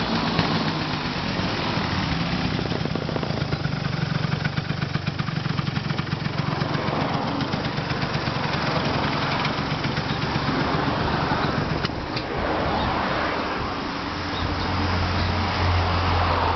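Yamaha Axis 90 scooter's two-stroke engine running, its firing heard as a rapid, uneven pulsing; near the end it settles into a steadier, deeper hum.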